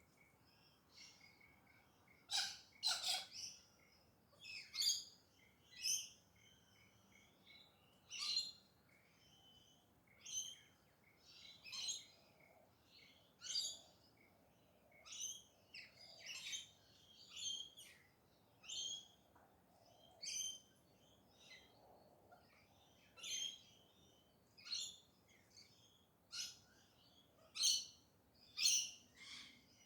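Galahs (pink-and-grey cockatoos) calling: a string of short, high calls about once a second, with the loudest calls a couple of seconds in and again near the end.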